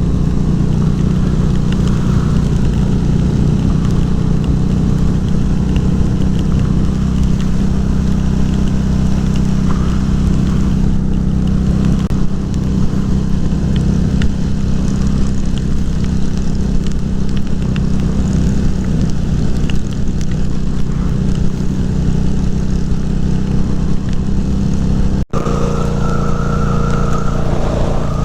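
Harley-Davidson V-Rod's liquid-cooled Revolution V-twin engine running steadily while the motorcycle is ridden. About 25 seconds in the sound cuts out for a moment and returns with an added higher whine.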